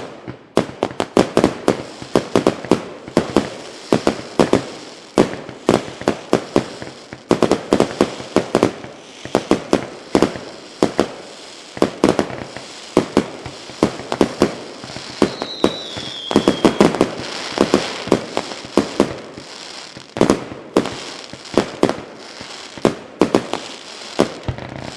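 Many sharp bangs and pops in irregular rapid clusters, with one short falling whistle about fifteen seconds in.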